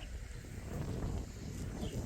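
Low wind rumble on the microphone outdoors, with a short, high bird chirp near the end.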